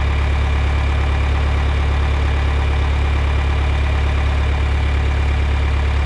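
John Deere 3010 propane tractor's engine idling steadily after being started on choke.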